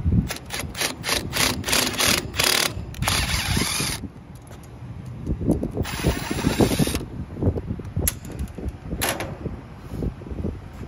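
Cordless drill/driver run in a quick series of short trigger pulls, then in two longer runs of about a second each, with one more short burst near the end.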